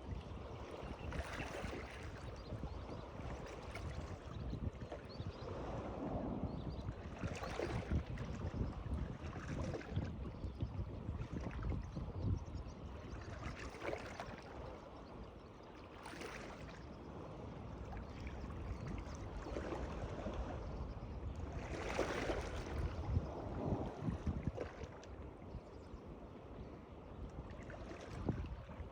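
Water lapping and splashing, with irregular swishes every few seconds over a steady low rumble.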